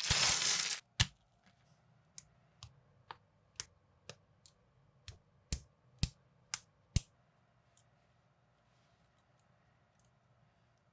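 Plastic building bricks clicking as they are pressed together and set down: about a dozen sharp clicks, uneven in spacing, then only a few faint ticks near the end. A brief loud rush of noise opens it.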